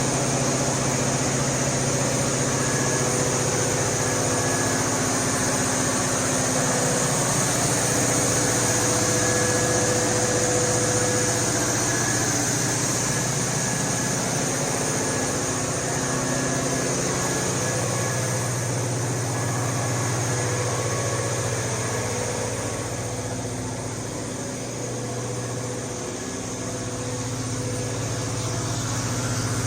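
Cummins KTA50-G9 V16 diesel engine of a 1500 kW generator set running at a steady speed, a constant loud drone with layered engine tones that eases off slightly for a few seconds near the end.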